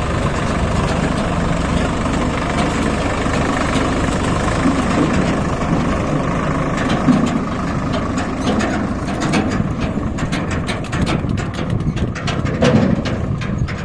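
Tractor diesel engine running steadily, joined about nine seconds in by a rapid clatter of short clicks.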